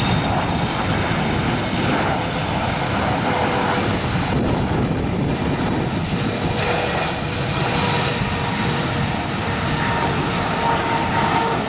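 Boeing 777 jet airliner on landing approach, its engines giving a loud, steady roar with a faint whine running through it.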